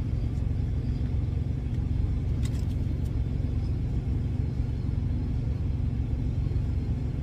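Steady low rumble of an idling semi truck's diesel engine, with a couple of faint clicks about two and a half and three seconds in.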